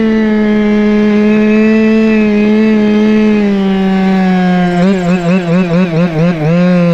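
Go-Ped scooter's small two-stroke engine, a CY26RC from an HPI fifth-scale RC car, running at speed with a steady high buzz that sags slowly in pitch. From about five seconds in, the revs waver up and down about four times a second.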